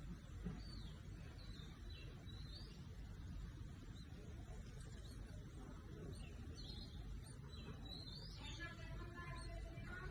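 Small birds chirping faintly: short, high chirps and quick pitch slides, scattered irregularly, over a low, steady rumble.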